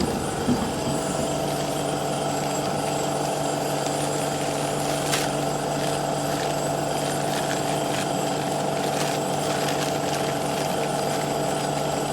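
Steady mechanical hum of a running motor or engine, even in pitch throughout, with a couple of short knocks, about half a second in and about five seconds in.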